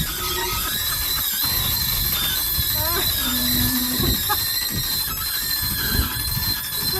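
Short squeaks and knocks from a refrigerator and furniture being shifted inside an RV, with a rising squeak about three seconds in and scattered low thumps.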